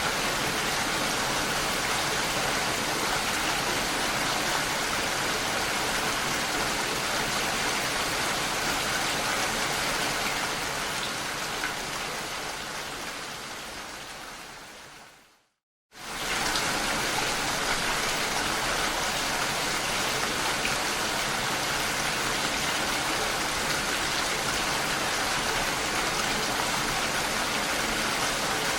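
Steady, even rain noise. About halfway through it fades away to a moment of silence, then starts again abruptly at full level, as at the joint of a looped recording.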